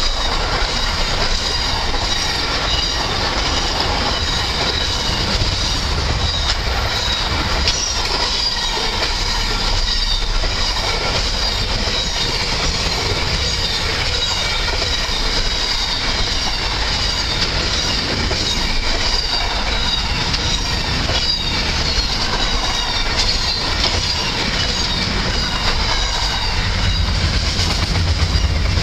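Intermodal freight train's container wagons rolling past close by: steel wheels on rail making a steady clatter, with a wavering high-pitched wheel squeal throughout.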